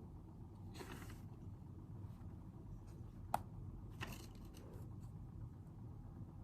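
Faint desk sounds from studying over a low steady room hum: a brief rustle of paper, then a single sharp tap or click of a pen or object set on the desk, then another rustle with a few small ticks.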